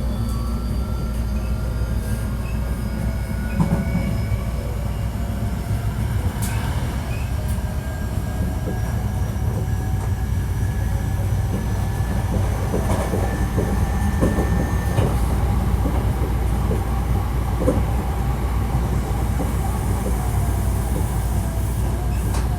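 Hankyu 1300 series electric train running between stations: a steady rumble of wheels on rail, with faint whining tones that slowly shift in pitch and a scattering of short clicks from the track, more of them past the middle.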